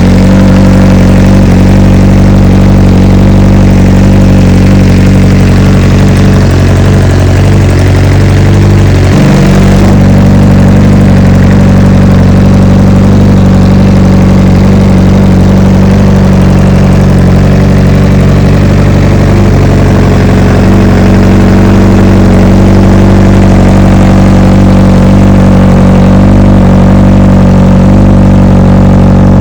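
600 cc inline-four supersport motorcycle engine idling steadily through its exhaust, with a brief unsettled moment about nine seconds in.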